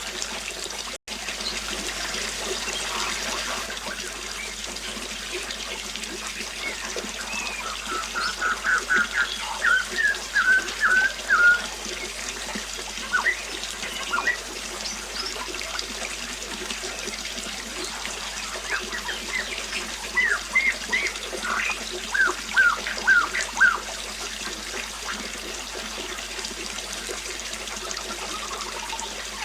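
Steady trickling water, with a bird calling in two runs of quick, short chirps, one starting about eight seconds in and another about twenty seconds in; the chirps are the loudest sounds. The sound cuts out for an instant about a second in.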